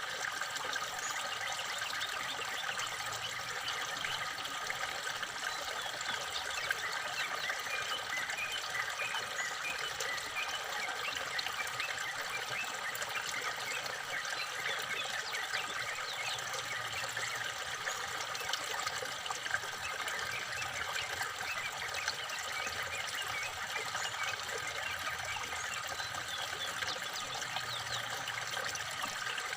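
Steady trickling water, with many small birds chirping briefly and often over it.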